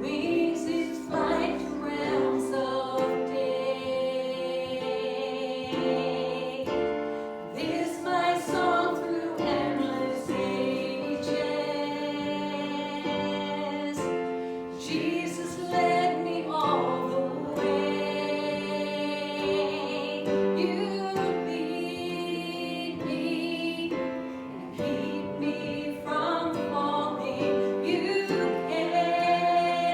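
Congregational or choir singing of a gospel song, accompanied by piano or keyboard.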